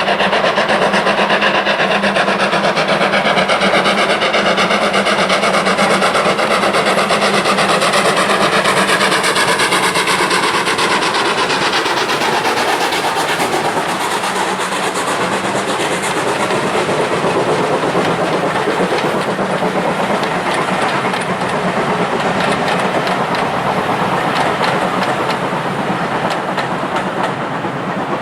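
Train running along the track: continuous, loud rolling wheel-on-rail noise with clickety-clack, easing off a little about halfway through.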